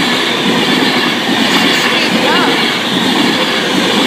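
Virgin Trains West Coast passenger train passing over a level crossing: a loud, steady rush of wheels on rail.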